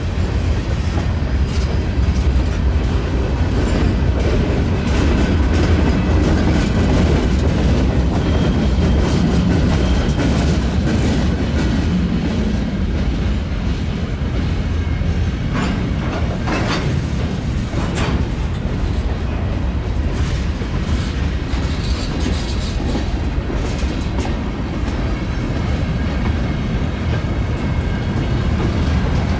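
Train rolling past, its steel wheels rumbling steadily and clicking over rail joints, with a few sharper clacks about sixteen to eighteen seconds in.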